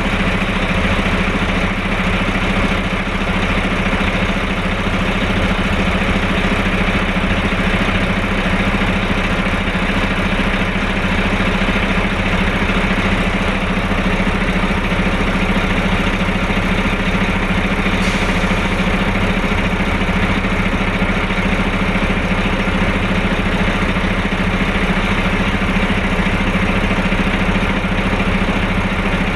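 A vehicle engine idling steadily, an even low hum that neither rises nor falls.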